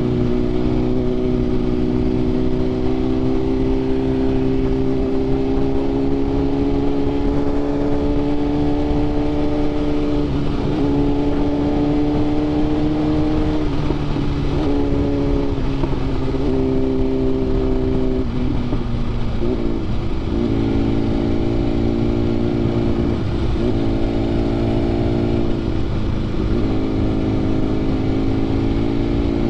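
BMW S1000RR inline-four sport bike, fitted with an SC Projects exhaust, running under way. Its engine note climbs slowly, then dips sharply and picks back up several times.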